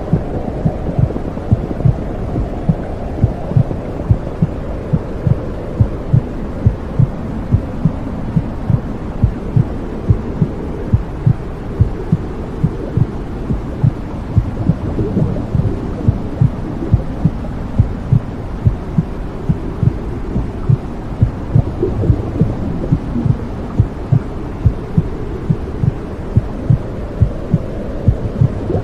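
Womb sound: a steady heartbeat, about two beats a second, over a low whooshing rumble.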